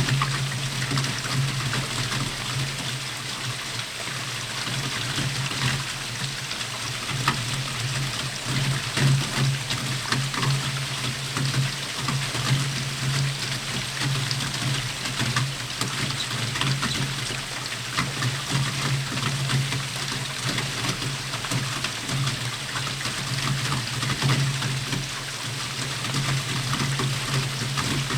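Steady rain falling, with many individual drops ticking sharply close by, over a steady low hum.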